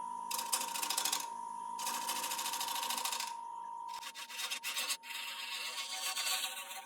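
Wood lathe running with a steady whine while a bowl gouge cuts the underside of a spinning damson bowl blank, in three passes of scraping cut noise, the last and longest starting about four seconds in.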